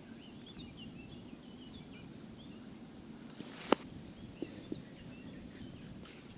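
Small birds twittering in short high chirps, in two spells, over a low steady background rumble. A single sharp click comes a little past the middle.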